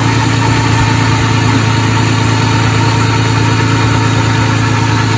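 A 1990 3.0-litre inline-six engine idling steadily and smoothly, still running quietly after some 30 years.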